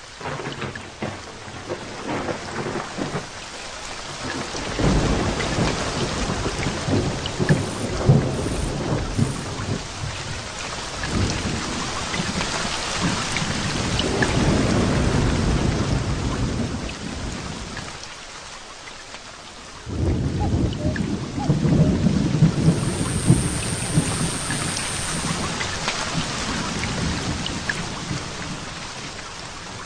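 Heavy rain falling steadily, with rolling thunder. One long rumble builds a few seconds in and fades out; a second breaks in suddenly about two-thirds of the way through and slowly dies away.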